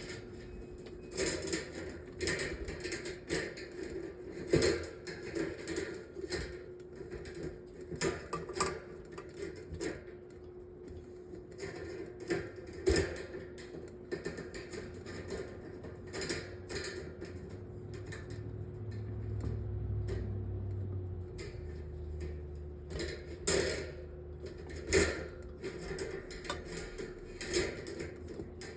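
Irregular clicks, knocks and clatter of metal table-fan parts being handled and fitted during reassembly, over a steady faint hum, with a low rumble for a few seconds past the middle.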